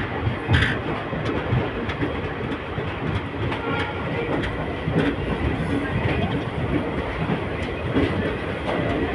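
Train wheels running on the rails, with a steady rumble and repeated clattering knocks over the track.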